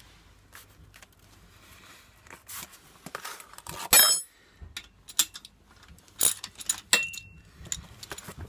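Metal tools and parts clinking and rattling during hands-on work, with one louder metallic clang that rings about four seconds in and a short squeak near seven seconds.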